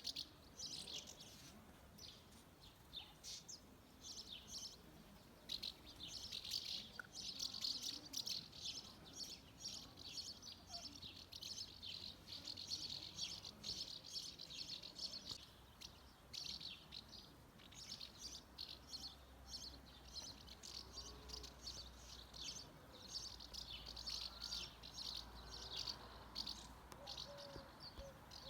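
A gathering of swallows twittering: many quick, high chirps overlapping almost without a break.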